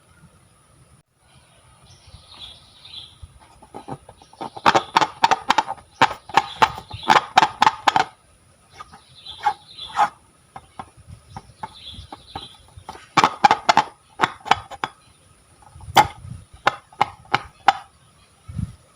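Slime being squished and worked by hand, with rapid sticky clicks and pops coming in several bursts.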